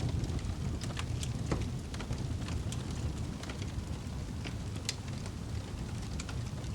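Wood fire burning in a fireplace: a steady low rumble of flames with scattered sharp crackles and pops, about two a second.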